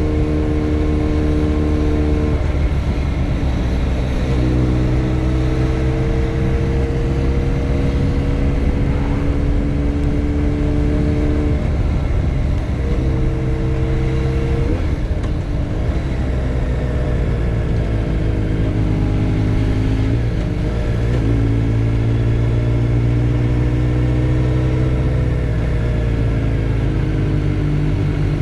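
Motorcycle engine heard from on board while riding, its note slowly rising, then dropping away and picking up again several times as the rider works the throttle and gears, over a steady low rumble.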